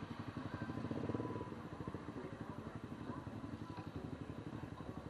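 Motorcycle engine running steadily, its firing pulses evenly spaced, swelling briefly about a second in.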